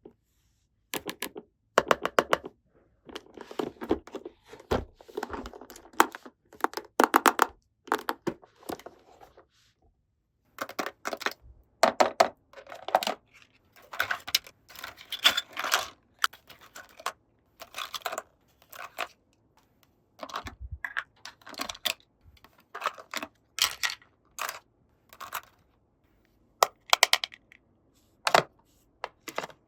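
Small hard plastic toy pieces being handled, tapped and set down: an irregular run of sharp clicks and short clattering taps with brief pauses between them.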